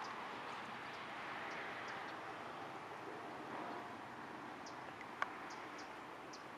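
Steady wash of traffic noise from a major highway, with faint short high ticks scattered through it and one sharp click about five seconds in.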